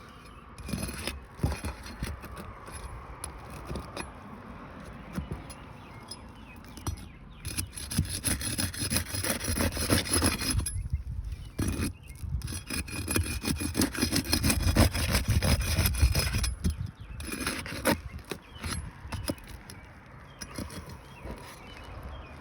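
Asphalt roof shingles being pried up and unsealed from their sealant strips: repeated scraping and tearing with short clicks. It gets louder in the middle.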